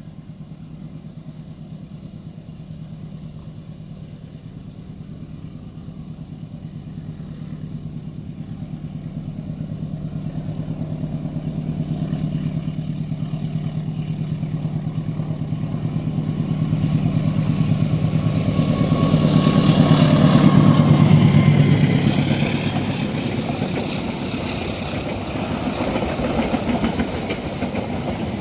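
Diesel locomotive approaching, its engine droning at a steady pitch and growing louder to a peak about twenty seconds in as it passes close, then easing off.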